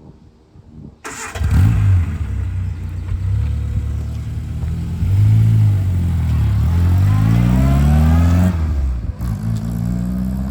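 1961 Austin-Healey Sprite's 948cc A-series four-cylinder engine pulling away under acceleration. It comes in suddenly about a second in, the revs climb steadily, fall at a gear change about two seconds before the end, then rise again.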